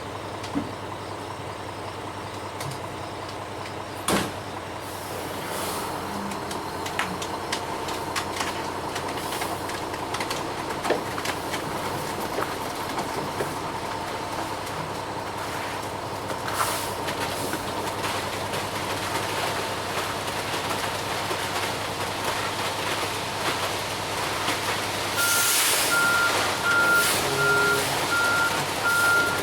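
Ready-mix concrete truck's engine running steadily, with scattered knocks. About 25 seconds in comes a burst of hissing air, then the truck's reversing alarm starts beeping in a steady run of beeps.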